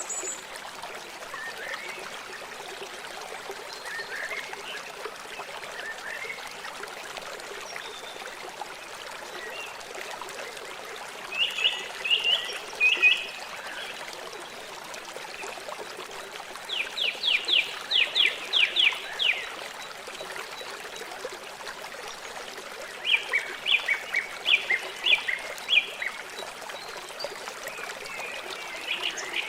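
River water flowing steadily. A bird calls over it three times, each call a quick run of short, high, repeated notes, and these calls are the loudest sounds.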